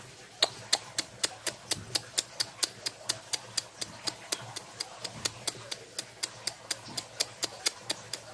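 A steady, evenly spaced series of sharp clicks, about four a second, starting about half a second in.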